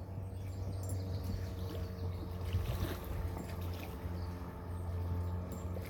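Steady low hum with light water trickling and small splashes around a fishing kayak on the water.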